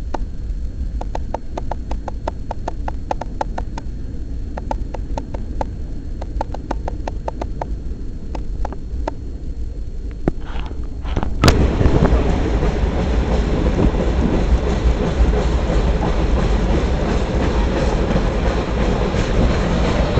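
Freight cars rolling past on the rails with a steady low rumble, their wheels clicking over rail joints in quick groups. About halfway through there is one sharp bang, and after it the rolling noise is louder and fuller.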